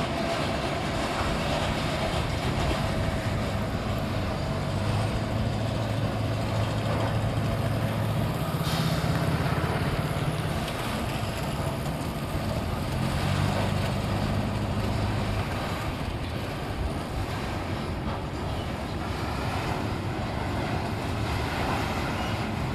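A heavy vehicle's engine running steadily over continuous rumbling noise. Its low hum holds steady pitches for several seconds at a time, shifting between two levels around a third of the way through and fading back to plain rumble about two-thirds of the way in.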